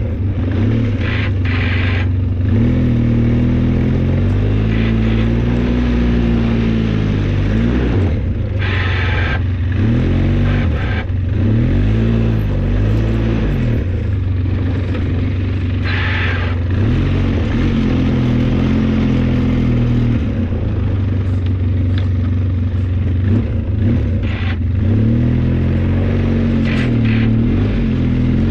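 Engine of a snow-plowing vehicle running under changing load, its pitch rising and falling again and again as it works back and forth, with a few short hissy bursts now and then.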